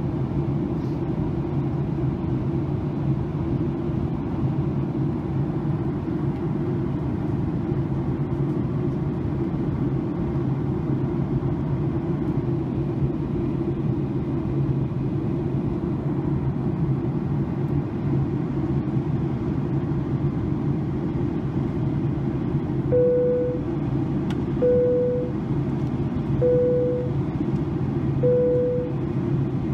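Steady roar of a jet airliner's cabin during descent, heard from a window seat: engine and airflow noise with a low hum. Near the end, four short identical beeps sound at even intervals.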